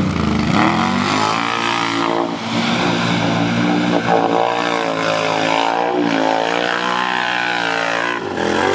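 ATV engines revving hard in a mud puddle, the pitch rising and falling again and again as the throttle is worked.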